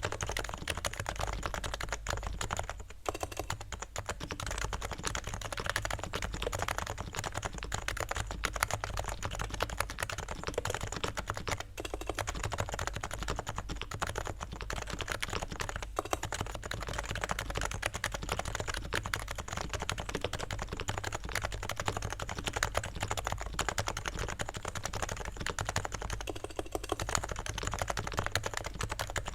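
Continuous rapid typing on a stock, unlubed Realforce R3 TKL silent keyboard with 45 g Topre electrostatic capacitive switches: a steady stream of soft keystrokes.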